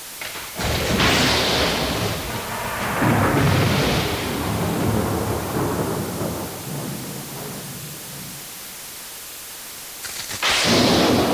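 Thunder over a steady hiss of rain: a clap cracks in under a second in and rolls on in two swells, dying away over several seconds. A second clap breaks suddenly near the end.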